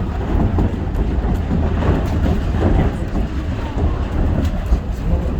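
Shonan Monorail 5000 series suspended monorail train running at speed between stations: a steady low rumble of motors and running gear.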